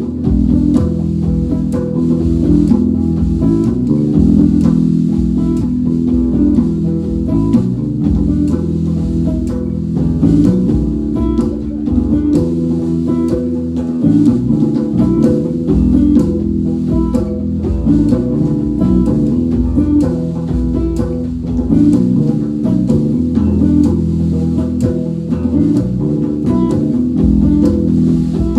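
Band playing an instrumental break: guitar over bass guitar and drum kit, with no singing.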